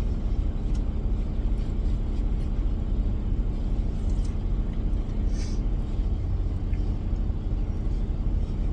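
A semi truck's diesel engine running steadily, a continuous low rumble heard from inside the cab, with a short hiss about five seconds in.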